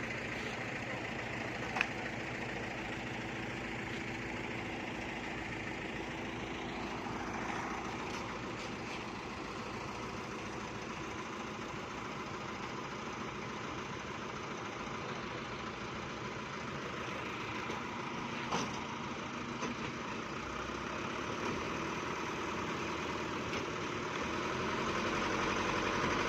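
Truck engine idling steadily, with a sharp click about two seconds in and a light knock later on.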